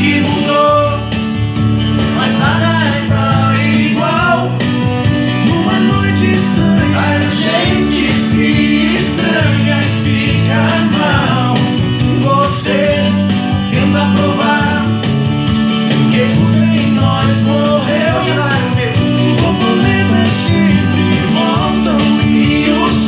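A Brazilian romantic song with band backing: steady bass and guitar under a wavering melodic line.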